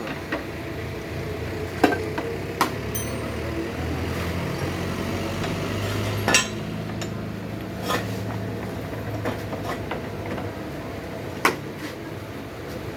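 Metal tools and parts clinking and knocking: about five sharp separate strikes, spaced a second or more apart, over a steady low hum.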